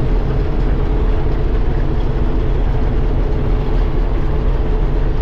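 John Deere 4400 combine running steadily during wheat harvest: a loud, even machine drone with a constant low hum.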